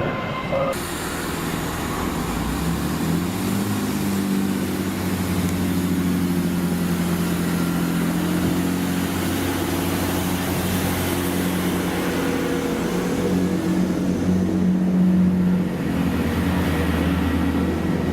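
A train running at a station platform: a steady low engine drone over a rushing noise, a little louder about fifteen seconds in.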